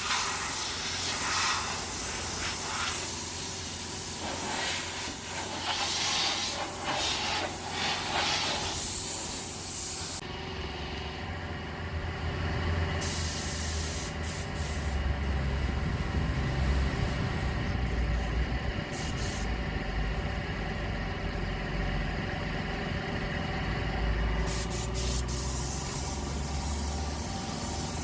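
Compressed-air paint spray gun hissing as paint is sprayed on a car body, the hiss swelling and easing with each pass. About ten seconds in the spraying stops suddenly, leaving a low steady hum with a few steady tones. The hiss starts again near the end.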